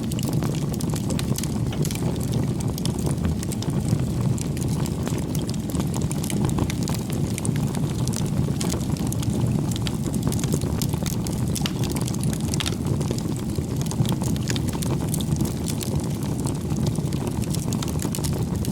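Wood bonfire burning: a steady low rumble of flames with frequent sharp, irregular crackles and pops from the burning wood.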